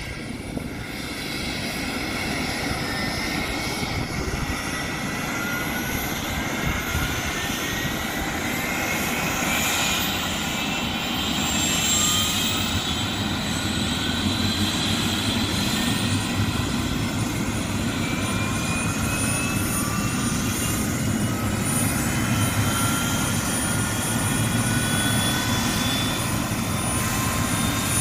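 Medical helicopter's turbine engine running, its high whining tones slowly rising in pitch over a steady rush of engine and rotor noise.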